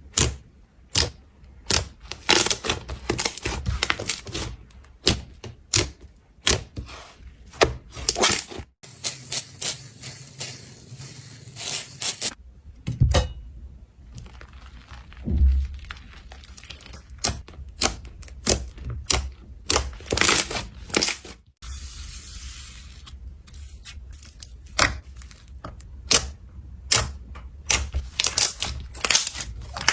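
Slime being squeezed, poked and stretched, giving a quick irregular run of crisp clicks and pops. Two short stretches of hissing come in, about nine seconds in and again past twenty seconds.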